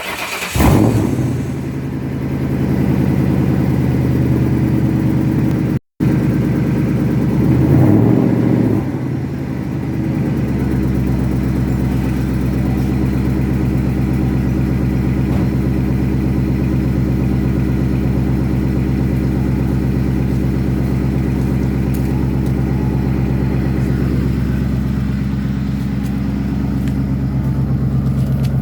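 2001 Ford Mustang GT's 4.6-litre V8 catching on a cold start and flaring loudly, then running a high idle. The revs rise briefly about eight seconds in before it settles into a steady cold idle.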